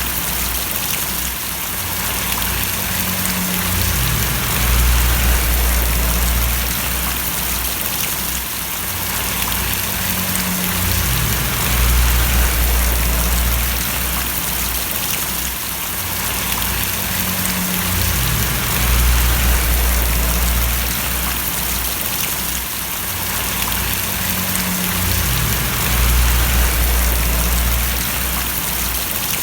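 Rain falling and splashing in a steady hiss, with a low rumble underneath that swells and fades about every seven seconds.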